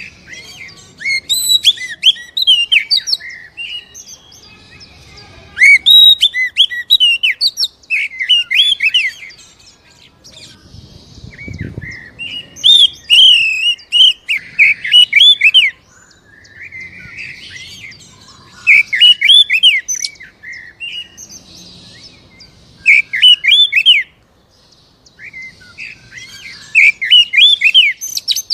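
Oriental magpie-robin (kacer) in full song: loud phrases of rapid, sweeping whistled and harsh notes, repeated every few seconds with short pauses between.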